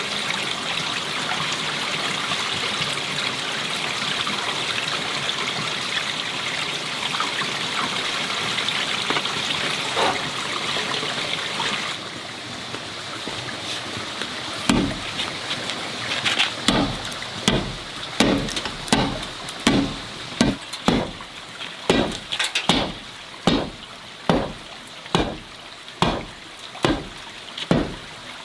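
Steady running water trickling, which gives way about twelve seconds in to a regular series of chopping strokes, about one and a half a second.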